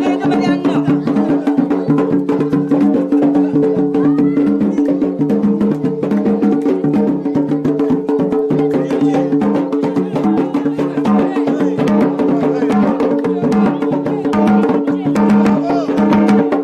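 Traditional Yemeni wedding procession music: drums and mirfa' hand drums beaten in a fast, dense rhythm over a steady droning tone.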